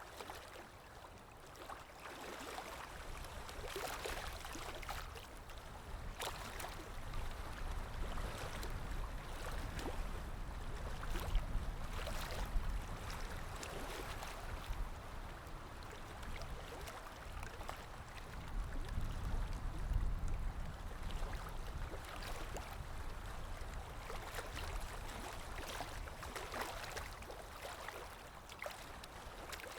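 Underwater ambience: a deep, shifting rumble with water noise that swells and fades every few seconds, and scattered short clicks.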